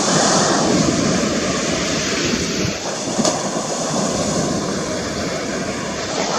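Steady rushing noise of surf and wind at the shore, with no clear breaks.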